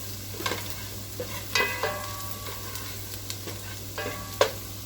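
Chopped garlic frying in butter and oil, sizzling steadily, with a utensil stirring and knocking against the pan a few times, the sharpest knocks about a second and a half in and near the end.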